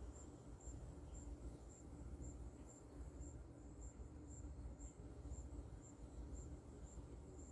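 Faint cricket chirping: a high-pitched chirp repeating about twice a second over a low steady hum.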